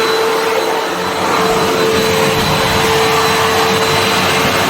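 Vax vacuum cleaner running steadily: a constant rush of air with a steady hum and a faint high whine.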